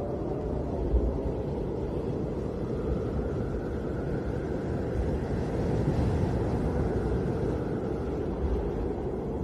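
Snowstorm wind blowing steadily: a deep, rumbling rush with a faint howl that wavers up and down, and a stronger low gust about a second in.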